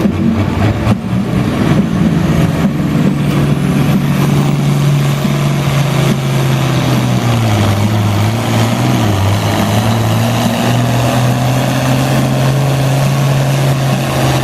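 International Harvester 966 pulling tractor's engine running hard under load as it drags the sled, a loud steady drone. Its pitch sags about halfway through and then climbs back up.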